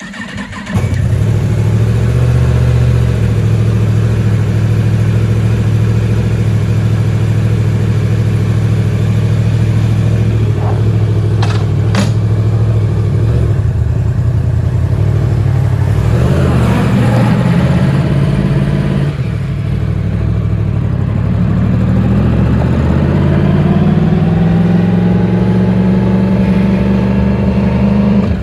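Yamaha MT-10's crossplane inline-four engine starting and then idling steadily through its exhaust, with a short blip of revs about two thirds of the way in and the idle rising slowly near the end.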